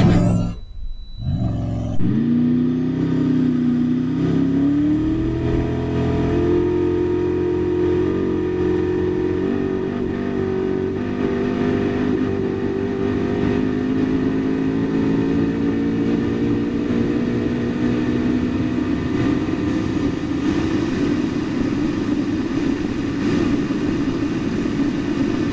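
Koenigsegg Regera's twin-turbo V8 under full acceleration. It starts suddenly about two seconds in and climbs in one unbroken rise for a few seconds, then holds a high, steady note. There are no gear-shift drops, as the car is direct drive with no transmission.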